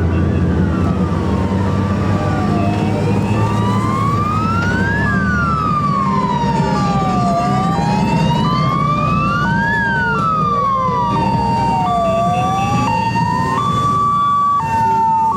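Two sirens sounding at once: a slow wail rising and falling about every five seconds, and a two-tone siren switching between a high and a lower note. Under them is the steady low rumble of passing motorcycle engines.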